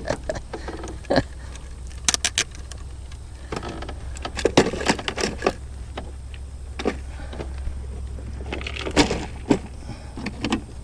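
Scattered clicks, rattles and knocks of a bass and fishing gear being handled in a jon boat, over a steady low rumble.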